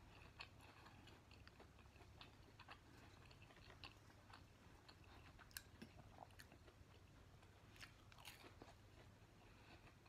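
Faint close-miked chewing of a McDonald's chicken nugget: soft wet mouth sounds with scattered small crunches and clicks, over a low steady hum.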